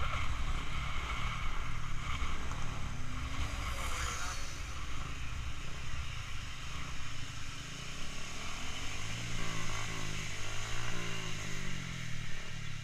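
Yamaha Jupiter MX motorcycle with an aftermarket DBS exhaust being ridden at speed, its engine heard under steady rushing noise. Near the end the engine pitch rises and falls several times.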